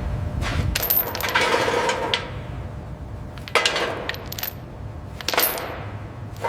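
A series of sharp metallic clinks and clatters, like metal parts or tools being handled and set down: a quick cluster in the first two seconds, then single strikes a few seconds apart.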